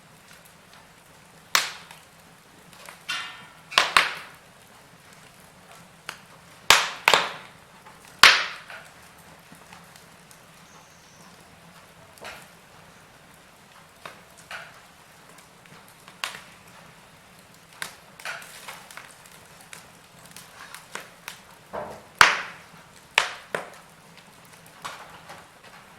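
Wood fire burning in a fireplace, crackling and popping at irregular moments over a faint steady hiss, with several louder sharp pops.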